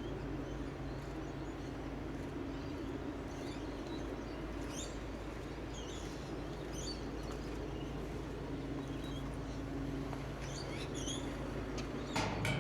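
Small birds chirping in short, scattered calls over a steady low engine drone, with a brief knock near the end.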